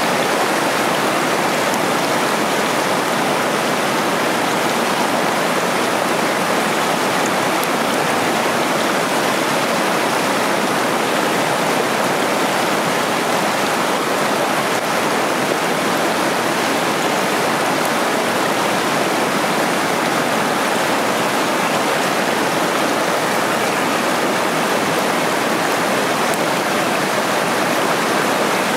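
Steady rush of a small waterfall and stream, water tumbling over rocks without a break.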